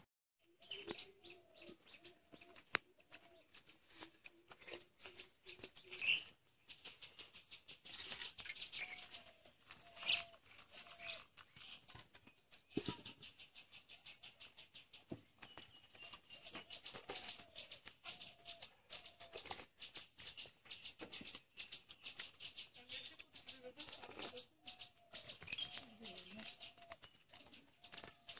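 Faint birds chirping and calling, with fast runs of rapidly repeated ticks and short calls.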